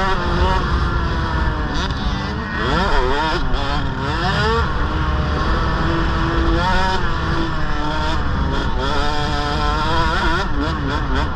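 KTM 65 mini motocross bike's small two-stroke engine running hard, its pitch climbing and dropping again and again as it revs up and shifts or backs off.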